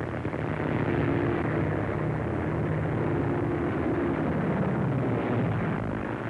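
Propeller-driven aircraft engines droning overhead. The drone swells about a second in and fades near the end.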